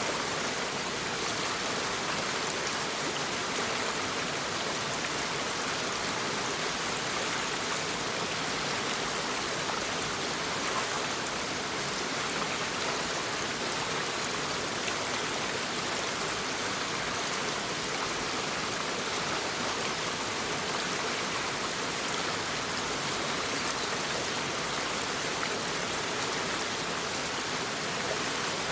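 Shallow brook babbling and splashing over stones, a steady, even rush of water.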